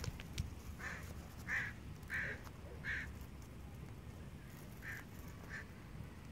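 A bird off camera giving short, harsh calls: four in quick succession, then two more near the end.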